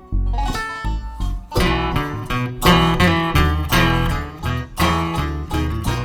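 Live bluegrass band playing an instrumental passage, led by picked acoustic guitar with banjo and low notes under it. The playing thins briefly at the start, then the band comes in fuller and louder about a second and a half in.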